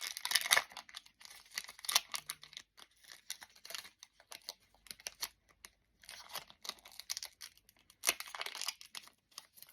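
Foil Pokémon trading card booster pack being torn open and its wrapper crinkled in the hands, in short irregular rustles.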